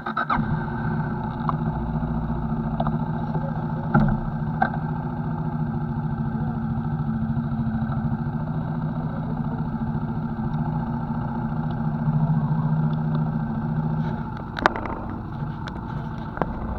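CFMoto NK motorcycle engine running at a steady pitch, with a few brief knocks and a slight change in pitch near the end.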